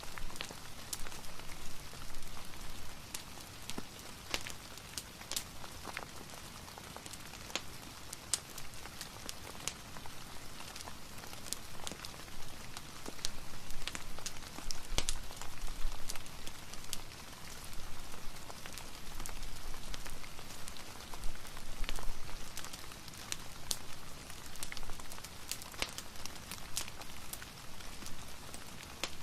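Steady rain with a fireplace's wood fire mixed in, the even hiss of the rain broken by many scattered sharp crackles and pops.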